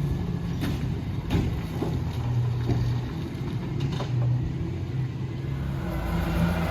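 Mack LR rear-loader garbage truck's diesel engine running, its pitch shifting now and then, with a few sharp knocks and clicks; the engine gets louder near the end.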